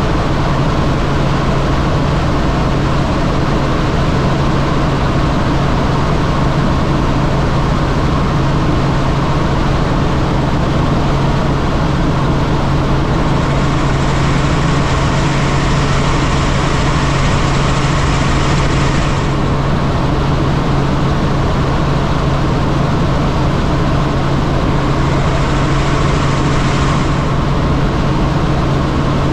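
Helicopter in flight: steady engine and rotor noise with a constant low hum. A hiss in the upper range grows louder for several seconds about halfway through, and again briefly near the end.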